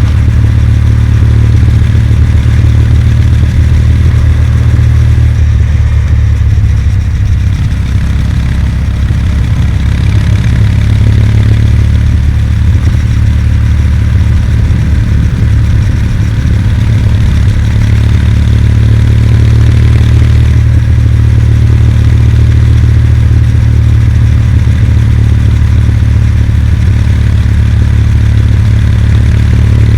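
Kawasaki W800's air-cooled parallel-twin engine running steadily as the motorcycle is ridden, with heavy low wind rumble on the microphone.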